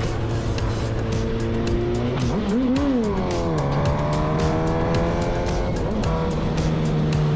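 A vehicle engine running steadily, blipped up and back down once about two and a half seconds in, then holding a higher steady note, under background music with a steady beat.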